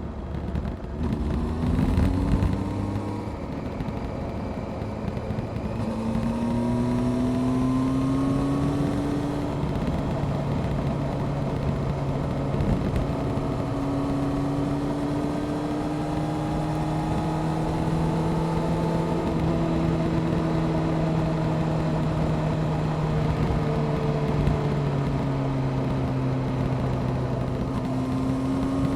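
Honda CBR600F Sport inline-four motorcycle engine and exhaust under way. The pitch climbs twice in the first ten seconds as the bike accelerates, then holds nearly steady at a cruise, over a constant rush of wind and road noise.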